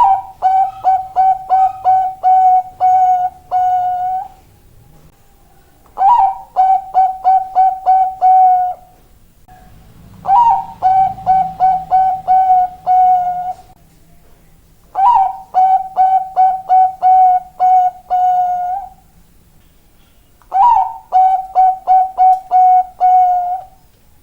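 Thai-bred zebra dove (perkutut bangkok) singing its cooing song, five times over. Each phrase opens with a rising note, runs into a string of quick clipped coos, and lasts about four seconds, with short pauses between phrases.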